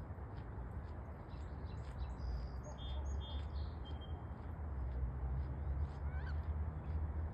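Faint high chirps and short whistled notes of small birds, clustered about two to four seconds in with a few more near the end, over a steady low rumble and hiss.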